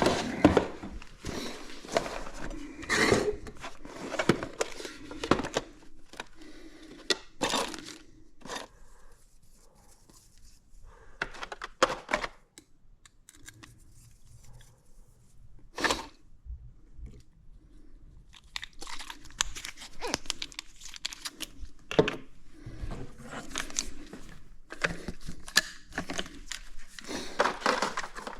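Irregular rustling, crinkling and tearing sounds broken by sharp knocks, as of things being handled at close range, quieter for a stretch in the middle.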